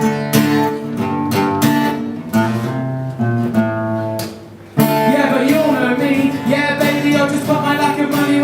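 Acoustic guitar strummed in an instrumental break between verses. It drops away briefly about four seconds in, then comes back in strongly.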